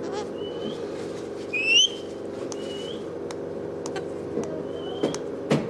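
Pet parrot giving short rising whistles, four in all, the loudest about a second and a half in, with a few sharp clicks, over a steady low hum.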